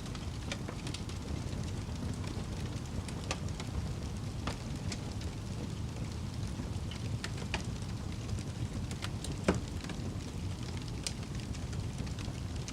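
Wood fire in a fireplace crackling: a steady low rumble of burning with scattered sharp pops and snaps, the loudest about nine and a half seconds in.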